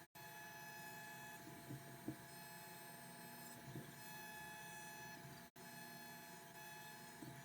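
CNC WE tattoo machine running with a faint, steady buzz while lines are tattooed, with a few light taps. The buzz drops out for a moment about five and a half seconds in.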